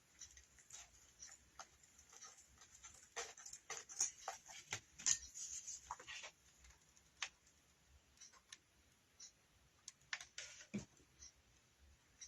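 Hands working on a craft piece: scattered rustles and light clicks and taps of fabric strips and materials being handled, busiest a few seconds in and again near the end.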